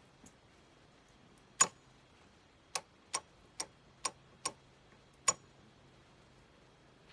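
A series of seven sharp knocks. The first and loudest comes about one and a half seconds in; the rest follow roughly every half second.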